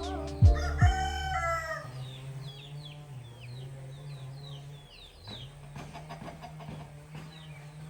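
Background music with a beat ends about two seconds in. Chickens follow: a run of short, high, falling peeps over a low steady hum.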